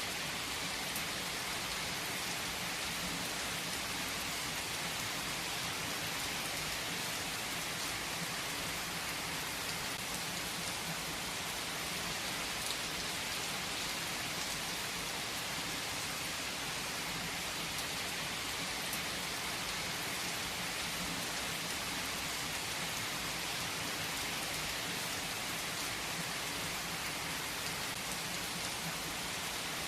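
Steady rain falling, an even hiss of many drops with a few distinct drop ticks.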